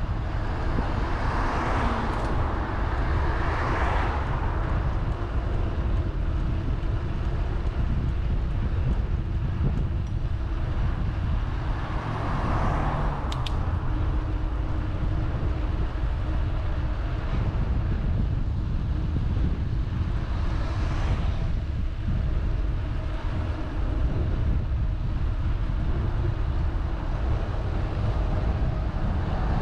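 Steady low wind rumble on the microphone of a moving bicycle, with several road vehicles passing by, one near the start, one about 12 seconds in, another about 21 seconds in and one at the end.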